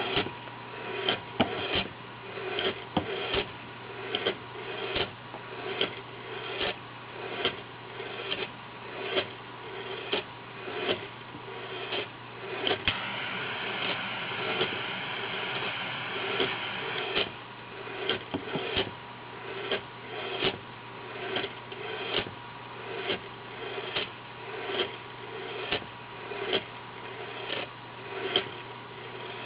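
Marble Stirling engine running: the glass marble rolling back and forth in its heated test-tube cylinder, clicking and knocking in a steady rhythm a little over once a second. For a few seconds around the middle a steady hiss covers the clicks.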